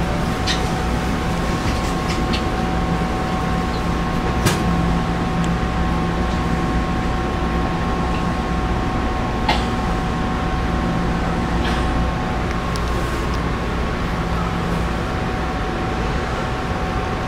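Steady cabin noise inside a Taiwan Railway EMU700 electric local train: a low rumble with two constant high tones over it, and a few sharp clicks, the loudest about four and a half seconds in and another near ten seconds.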